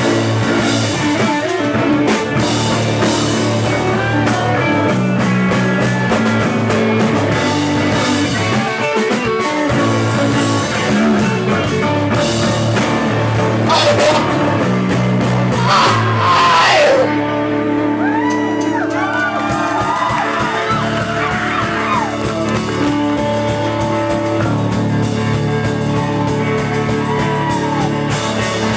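Live rock band playing loud with guitar, bass, drums and vocals, including a shouted vocal line. About halfway through, the cymbals drop out for a stretch, leaving guitar with sliding, bending notes before the full band builds back.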